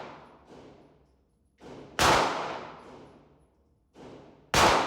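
Gunshots on a shooting range: two loud shots about two and a half seconds apart, each with a long echoing tail and a softer bang just before it.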